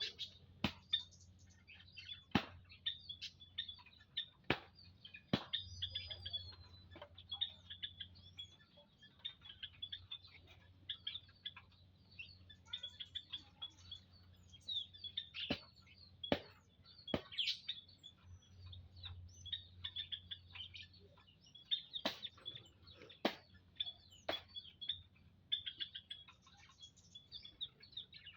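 A family of prenjak lumut, small songbirds, chirping busily in an aviary: a constant stream of short, high calls. About ten sharp clicks are scattered through it.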